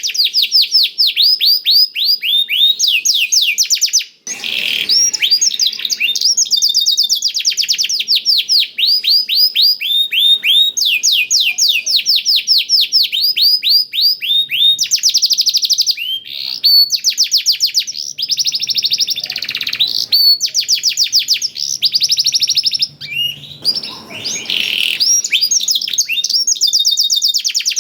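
Domestic canary singing a long continuous song with black-throated canary phrases mixed in: fast trills of rapidly repeated downward-sweeping notes that switch to a new phrase every second or two.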